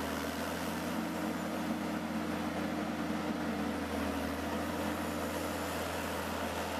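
An engine or motor running steadily at an even speed, with a constant low hum and no change in pitch.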